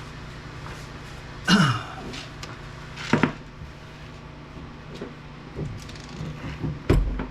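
Scrap electronic parts being handled on a workbench: three short clatters and knocks, about a second and a half in, about three seconds in and just before the end, the last with a dull thud, with a few lighter ticks between, over a steady low hum.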